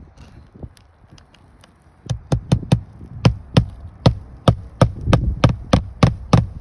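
Hammer driving roofing nails through an asphalt shingle into the roof deck. A few light taps come first, then from about two seconds in a steady run of about fifteen sharp blows, roughly three a second.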